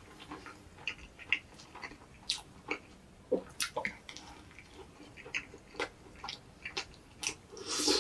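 Close-miked chewing of egg drop toast: irregular soft, wet mouth clicks and smacks, a few a second, with a louder, longer wet squelch near the end.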